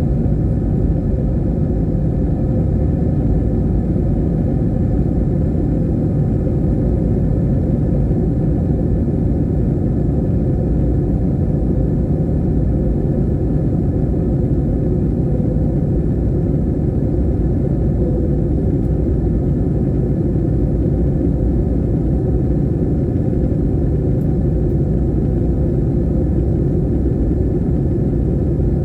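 Steady low rumble of an airliner's passenger cabin in flight: engine and airflow noise, unchanging.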